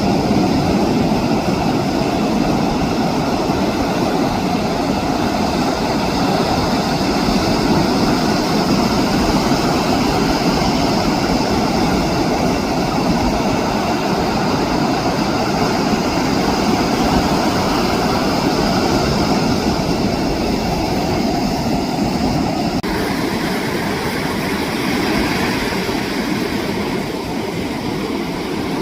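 Ocean surf on a beach: a steady, loud wash of breaking waves that shifts abruptly about 23 seconds in.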